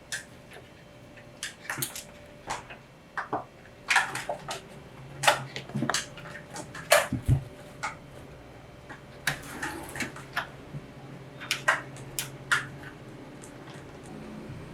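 Irregular sharp clinks and knocks of kitchen utensils and dishes being handled, with faint water sounds.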